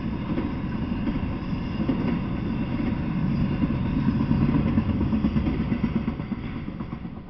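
Intermodal freight train rolling past, a steady low rumble of wheels on the rails that fades away near the end as the last car goes by.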